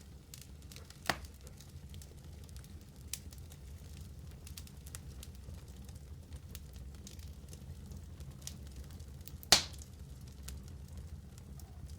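Fire burning in a fireplace, crackling steadily over a low rumble, with two sharp loud pops about a second in and near the end.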